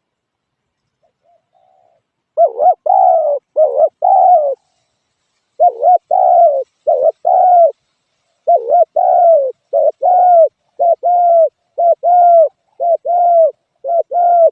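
Spotted dove cooing: short, throaty coo phrases repeated over and over, in three bouts with brief pauses between them, beginning about two seconds in.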